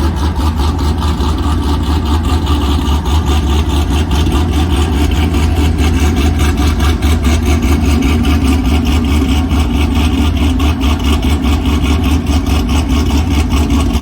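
A car engine running loud and steady at idle, with a fast, even pulse, until it cuts off abruptly at the end.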